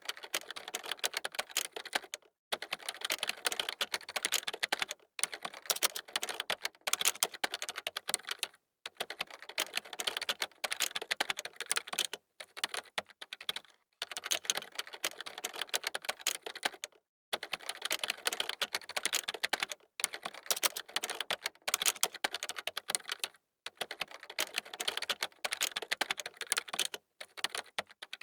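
Fast typing on a computer keyboard: rapid runs of key clicks in bursts of a second or few, broken by short gaps of silence.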